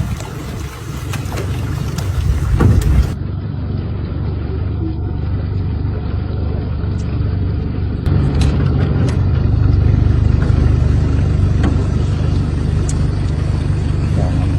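A steady low rumble with a few faint clicks, changing abruptly about three seconds and eight seconds in.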